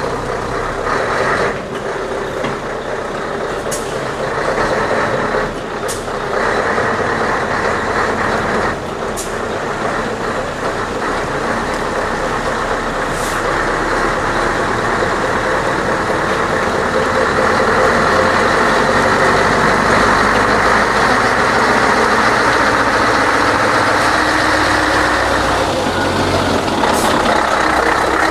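Scania 143's V8 diesel engine running as the truck moves slowly, growing somewhat louder in the second half. Several short hisses from the air brakes cut in along the way.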